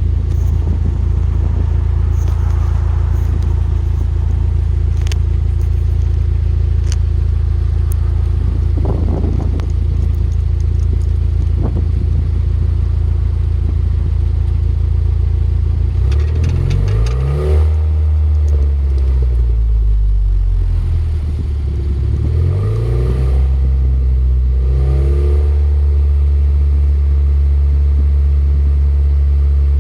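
Car engine idling through its stock exhaust, with a steady low hum. In the second half the throttle is blipped three times; each rev rises and falls back to idle.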